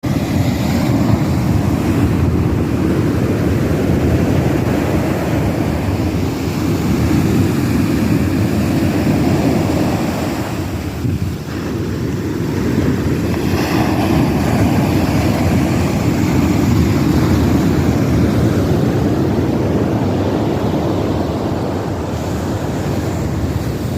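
Ocean surf washing ashore, with strong wind rumbling on the microphone; one wave breaks a little more brightly about halfway through.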